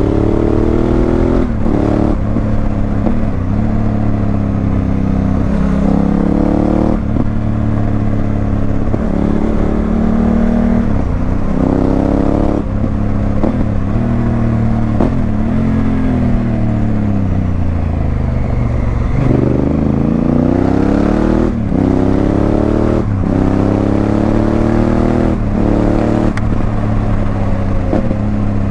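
Honda Africa Twin CRF1000L's parallel-twin engine through a Remus aftermarket exhaust, pulling up through the gears. Its pitch climbs again and again, with a short dip at each shift. About two-thirds of the way in, the revs fall for a few seconds as the bike slows, then it accelerates through the gears again.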